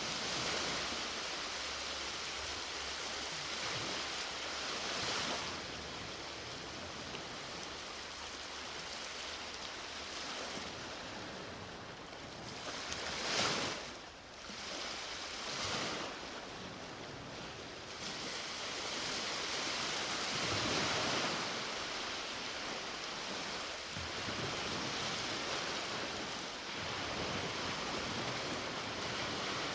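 Sea waves breaking on the shore, a steady wash of surf that swells and ebbs, with a sharper surge of a breaking wave about halfway through.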